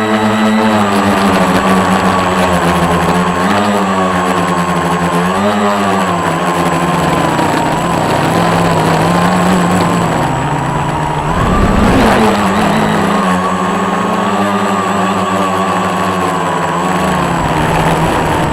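Scratch-built quadcopter's motors and propellers buzzing in flight, the pitch swinging up and down with the throttle. A brief low rush of noise comes about twelve seconds in.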